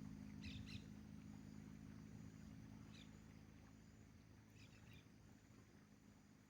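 Faint low engine hum fading steadily away, with a few short high chirps, twice near the start and a couple more later.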